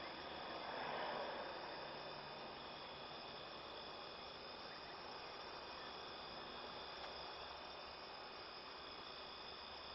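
Faint, steady insect chorus, many high chirring tones held without a break. A brief swell of rushing noise comes about a second in.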